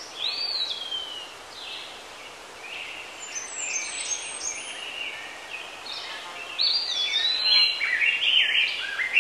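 Birds chirping and whistling over a steady background hiss. The calls grow busier in the second half.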